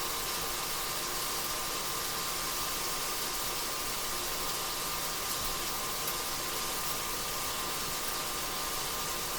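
Beef browning in a pan on the stove: a steady sizzling hiss that holds at an even level, with a thin steady tone running beneath it.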